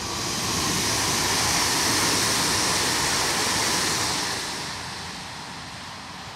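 Electric passenger train passing at speed: a rush of wheel and rail noise that swells to its loudest about two seconds in, holds, then fades away after about four seconds.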